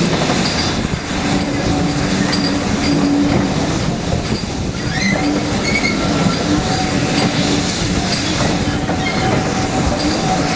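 Heritage railway train running on the track, a steady rolling noise of wheels on rails.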